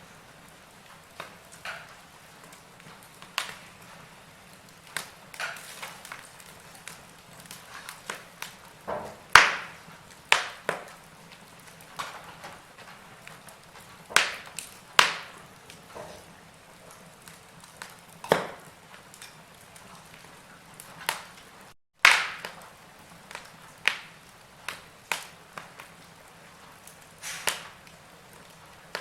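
Burning logs in a fireplace crackling: irregular sharp pops and snaps over a faint steady hiss, a few of them much louder. The sound drops out for an instant just before one loud snap, about two thirds of the way through.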